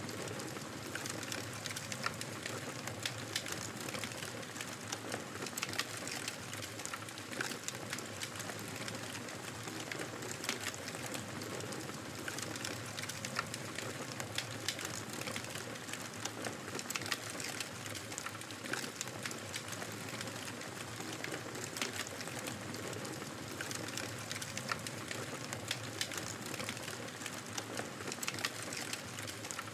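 Wood fire crackling in a fireplace: a steady soft hiss with frequent irregular pops and snaps from the burning wood.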